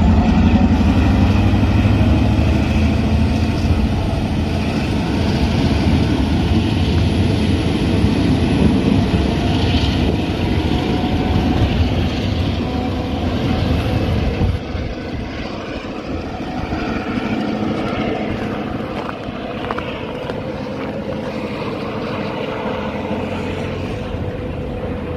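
EMD diesel freight locomotives, a GP38 and an SD40, running slowly past at close range with a heavy engine rumble, followed by freight cars rolling over the rails. The sound drops about halfway through as the locomotives move off, leaving the steadier rolling of the cars.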